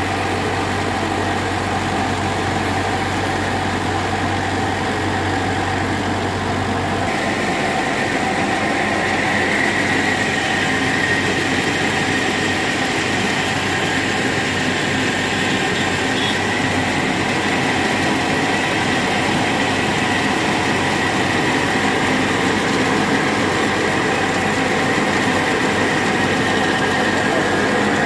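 A tractor engine running steadily while driving a mini rice mill. About seven seconds in, the low drone drops away and a steady high whine comes in and holds.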